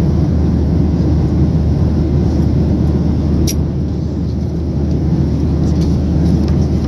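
Steady low rumble and hiss of a Boeing 737-800's engines and airflow heard inside the passenger cabin, with one brief click about halfway through.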